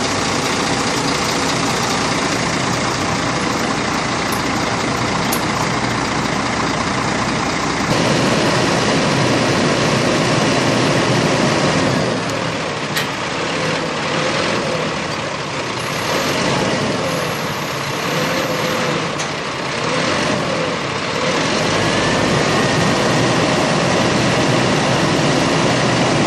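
Scania truck's diesel engine running steadily. Its sound shifts about eight seconds in, and it runs a little quieter in the middle stretch.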